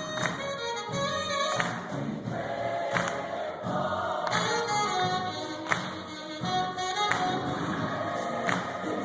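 Gospel choir singing with instrumental backing and a regular percussive beat.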